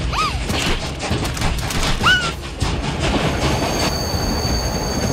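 Cartoon sound effect of a train running fast along the rails, a dense steady rumble. Two short squeals rise and fall, one at the start and one about two seconds in, and a high steady squeal joins in the last two seconds.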